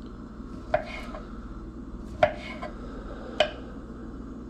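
Knife slicing sausage links on a cutting board: three sharp knocks of the blade meeting the board, a second or so apart, with fainter ticks between.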